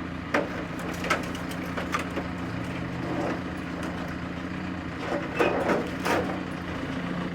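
Telehandler engine running steadily under load, with scattered sharp cracks and crunches of sheet metal as the truck's cab is being lifted and torn off.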